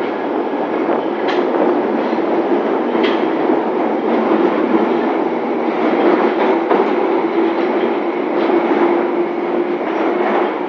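London Underground 1972 Tube Stock train moving at the platform: steady rumble of steel wheels on rail with a steady low tone through it and a few sharp clicks over the rail joints.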